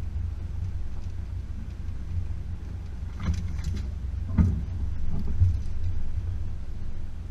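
Range Rover P38's 4.0-litre V8 running steadily at a low rumble. A few knocks and rattles come between about three and five and a half seconds in, the loudest about four and a half seconds in.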